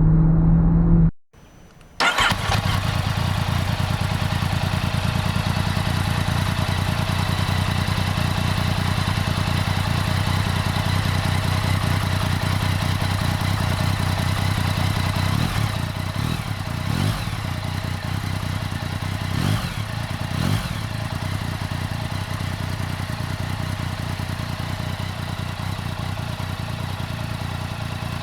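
Yamaha MT-09's three-cylinder engine running at idle after cutting in about two seconds in, with a few short throttle blips past the middle. Its idle carries the abnormal noise it has had since the bike was new.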